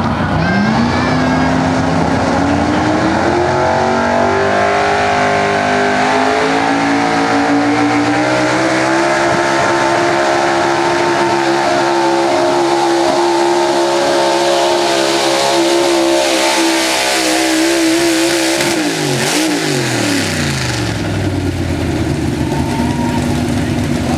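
4x4 pulling truck's engine at full throttle during a pull: the revs climb over the first several seconds, hold high and steady for about ten seconds, then drop away as the throttle comes off near the end.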